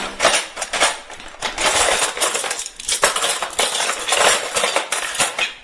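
Ceramic dishes and metal cutlery clinking and clattering against each other in quick, irregular knocks, as when plates are handled and stacked.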